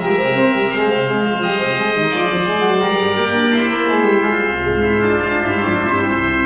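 Organ music: held chords whose notes shift every second or so, with low bass notes coming in about four and a half seconds in.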